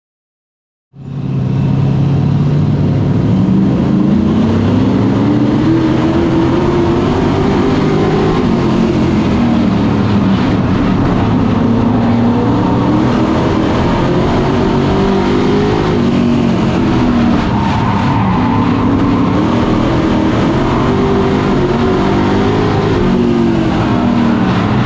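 Super Pro race truck engines running at speed around the oval, the pitch rising and falling in repeated waves as they accelerate down the straights and lift for the turns. The sound starts abruptly about a second in.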